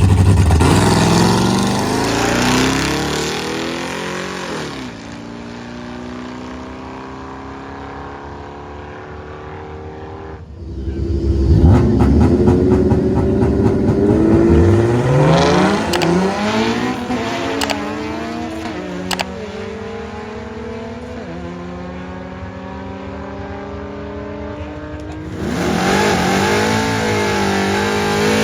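Drag-racing cars launching and running down the strip, the engine pitch climbing through each gear and dropping back at each shift as the car pulls away and fades. A new run starts loud about ten seconds in, and another begins near the end.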